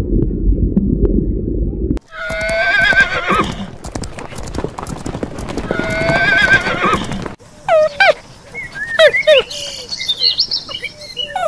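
A horse whinnying twice, each a wavering, high call that drops away at the end, after a low rumbling noise in the first two seconds. Near the end come quick short, high calls, each falling in pitch.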